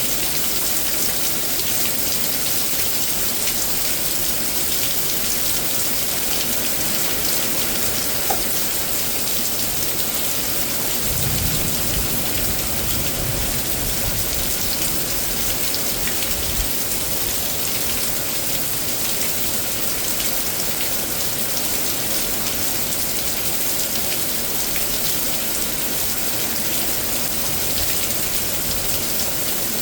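Heavy rain falling steadily in a severe thunderstorm, with a short low rumble about eleven seconds in.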